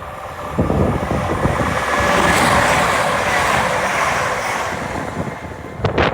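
A passing train: a rushing noise that swells to a peak about two to three seconds in and then fades, over a low rumble, with a few sharp clicks near the end.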